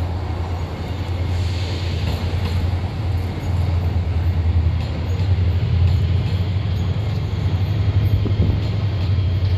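TransPennine Express Class 802 bi-mode multiple unit moving along the platform line, with a steady low drone that grows louder as the train comes alongside.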